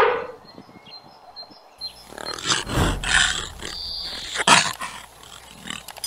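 An elephant's trumpet falls in pitch and dies away at the very start. After a short lull, a snow leopard gives several short, rough calls, the loudest about four and a half seconds in.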